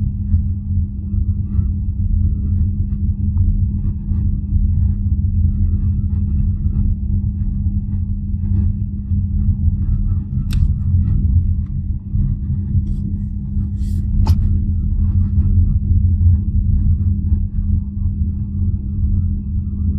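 BYD Atto 3 electric car driving at low speed: low road rumble with a steady low hum, the strange humming that sits on top of the car's pedestrian warning sound between 20 and 32 km/h. A few short sharp ticks about ten and fourteen seconds in.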